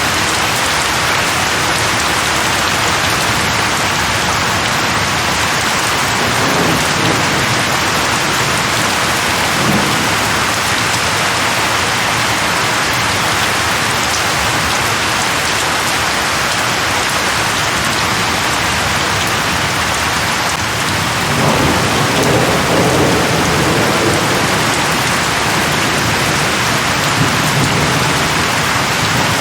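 Steady heavy rain falling, with low rolls of thunder: a softer rumble about six seconds in and a stronger one starting about two-thirds of the way through.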